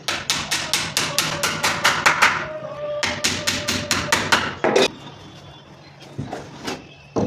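Rapid hammering on wood, two quick runs of sharp strikes about six a second separated by a short pause, then a few scattered knocks and one louder knock near the end.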